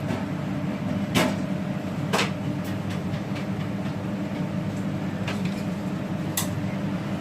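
A metal spoon knocking against a dish a few times with sharp clicks while paste is spooned onto the chicken, over a steady low hum.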